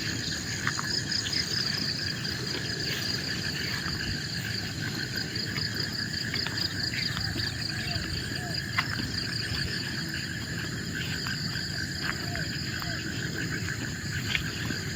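Forest insects trilling steadily in two high, pulsing bands, over a low steady background noise, with scattered short chirps and clicks from other animals.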